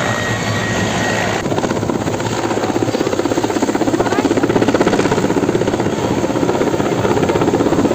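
Helicopter flying overhead, its rotor chopping in a fast, even beat that grows louder toward the middle.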